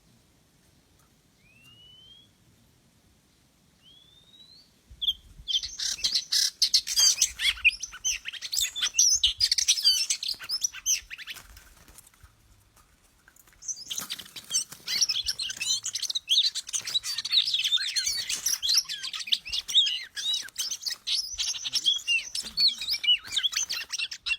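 Oriental magpie-robin (kacer) singing. It opens with single short rising whistles about two seconds apart, then from about five seconds breaks into a loud, fast, varied run of chirps and warbles. The song pauses briefly near the middle and resumes.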